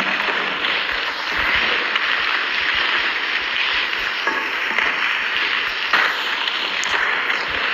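Strong wind and heavy rain: a steady rushing noise with no pitch to it.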